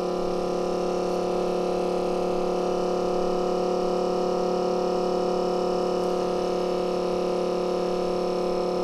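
Steady electrical hum with several even tones stacked above it, unchanging throughout.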